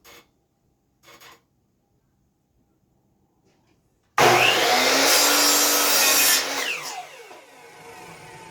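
Two brief knocks, then a power saw starts suddenly about four seconds in and cuts through a 2x4 for about two seconds. After the cut its blade winds down with a falling whine.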